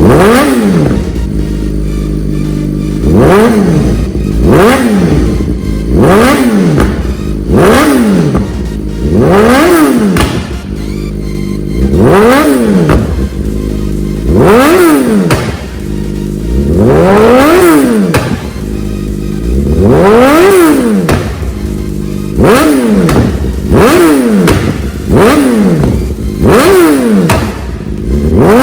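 BMW S1000RR inline-four, breathing through a full Akrapovič exhaust with the dB killer removed, revved repeatedly: about fifteen sharp throttle blips, each rising quickly and dropping straight back toward idle, one every one to three seconds.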